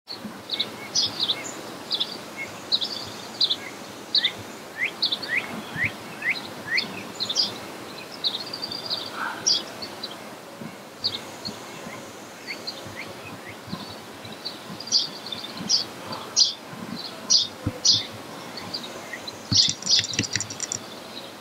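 Songbirds chirping and singing: many short high chirps and whistled notes, some in quick runs of down-slurred whistles, over a faint steady background noise.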